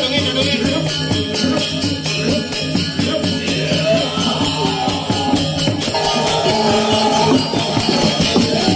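Balinese gamelan music: fast, dense clashing of small cymbals over ringing pitched metal tones.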